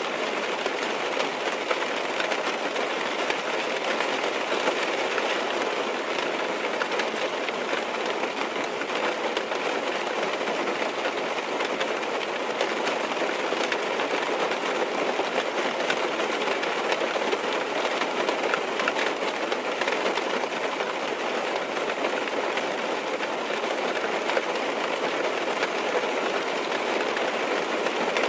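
Steady rain falling on a car's roof and windows, heard from inside the car: a dense, even patter with scattered sharper drop hits.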